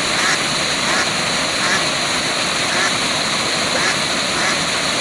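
Waterfall rushing steadily, with short animal calls recurring roughly once a second over it.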